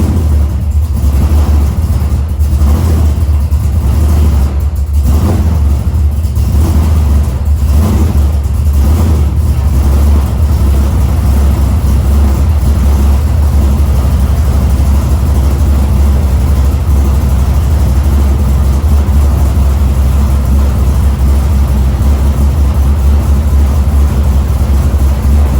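Chevrolet C10's swapped 6.2-litre L92 V8, with a stage 4 cam, long-tube headers and true dual exhaust, running loud and deep just after a cold start. It is uneven for the first several seconds, then settles into a steadier, choppy idle.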